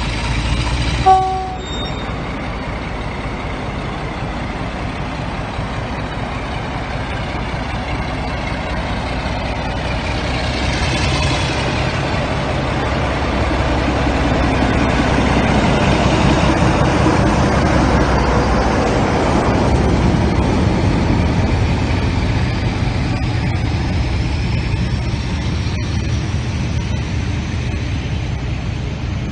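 Diesel locomotive passing through a station with a rake of Pullman coaches: a short, loud horn blast about a second in, then engine and running noise that builds to its loudest around the middle as the locomotive goes by and eases as the coaches roll past.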